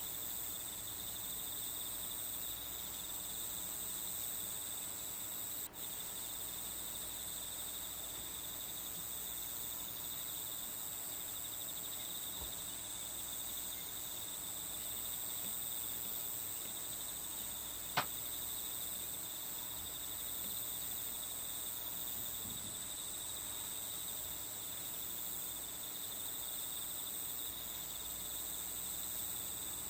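Steady chorus of crickets, a continuous high trill, with a single sharp click about eighteen seconds in.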